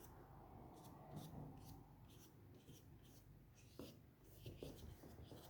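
Faint paintbrush strokes on a canvas: a series of short, soft scratchy strokes at an uneven pace, with a few light taps.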